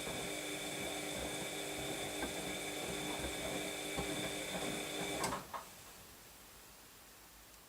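Washing machine running its drum motor with a steady whine and occasional soft knocks, then stopping with a click about five seconds in, the usual pause between drum turns in the wash cycle.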